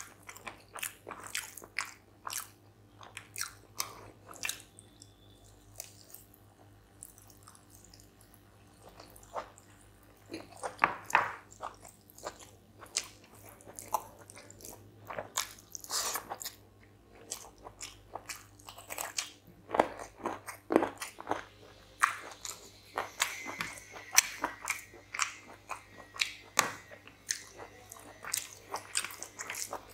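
Close-miked eating sounds of rice and spicy chicken curry eaten by hand: chewing with many irregular wet clicks and mouth smacks, with fingers mixing rice into the curry on the plate.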